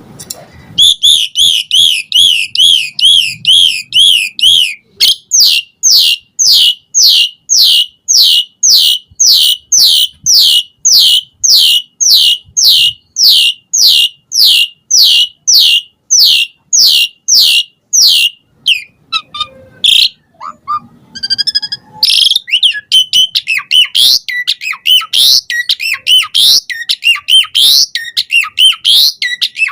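Asian pied starling (jalak suren) singing loudly: first a quick run of repeated rise-and-fall whistles, about three a second; then a long series of evenly spaced rising whistled notes, about two a second; then, after a short break a little past halfway, a faster, more varied chattering phrase.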